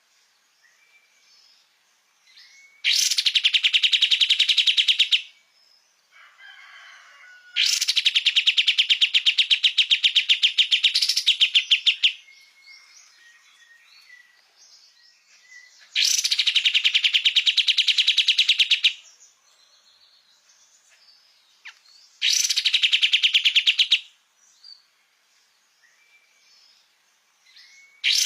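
A kapas tembak songbird singing in four long, rapid trills of quickly repeated high notes, each lasting two to four seconds, with faint short chirps in the pauses between them.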